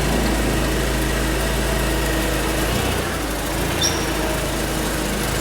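An engine running steadily at a constant speed, a loud even drone with a strong low hum.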